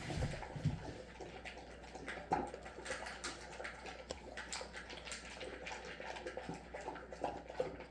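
Dog eating from its bowl of food with broth: a string of small, irregular wet lapping and chewing sounds.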